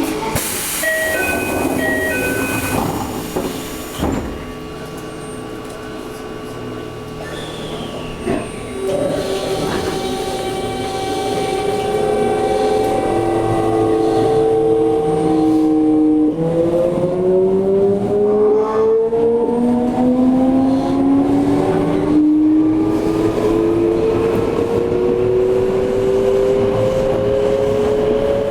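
Toei 5300 series electric train accelerating away from a station, heard inside the car. The VVVF inverter and traction motors whine, rising in pitch, with a sudden jump in the tones about 16 seconds in before they climb again. A few short chime-like tones and a thud come in the first few seconds.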